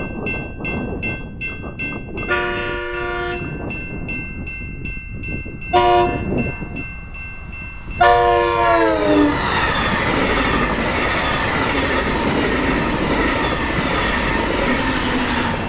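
Crossing bells ringing several times a second as a train approaches and blows its horn: a long blast, a short one, then a long blast that drops in pitch as the locomotive passes the crossing. The train then runs by with a loud steady rush and clatter of wheels on the rails.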